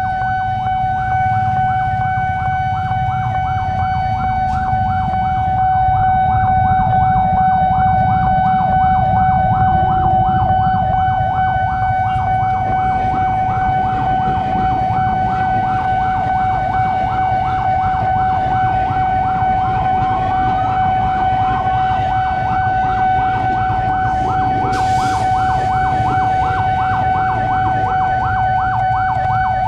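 Railway level-crossing warning alarm sounding without a break, a steady electronic tone pulsing several times a second. Under it is the low rumble of an electric commuter train passing the crossing, from the ex-Tokyo Metro Chiyoda Line stock used on Jakarta's KRL.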